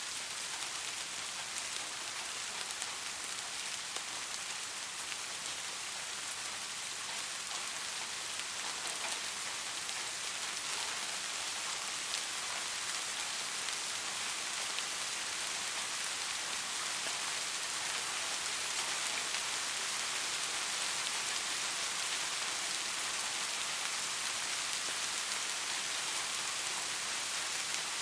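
Steady rain falling on a surface, an even hiss made of many fine drop ticks, growing slightly louder over the second half.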